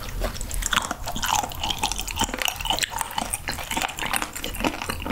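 Close-miked chewing of raw sturgeon spinal cartilage: a steady run of small crunches and crackles, the crunchy texture likened to pork cartilage.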